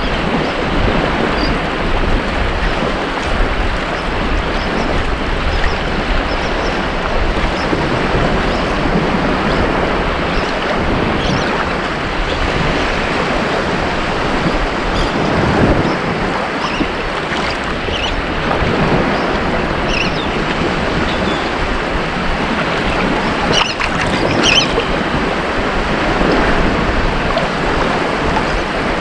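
Ocean waves breaking and washing up a beach: a steady rushing surf that swells and eases.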